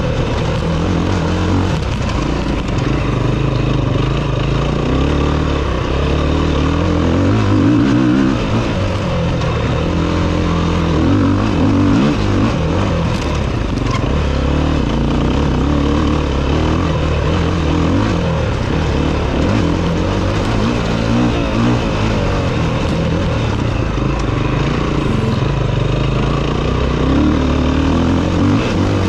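Enduro motorcycle engine running hard on a dirt track, its revs rising and falling again and again with throttle and gear changes, heard close up from the bike itself.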